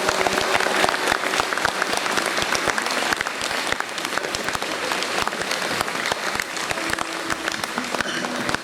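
Audience applauding after a song ends, the clapping slowly dying down.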